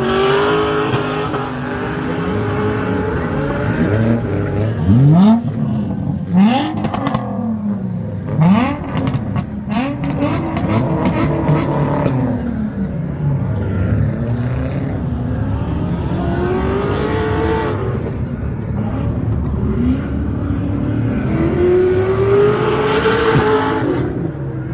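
Car engines revving, their pitch rising and falling again and again, with quick sharp revs and a run of short cracks between about five and twelve seconds in.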